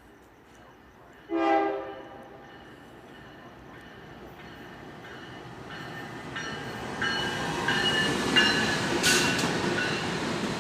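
A train horn gives one short blast about a second in, then a train approaches and grows steadily louder, with regular wheel clicks and a high, steady squeal from the wheels.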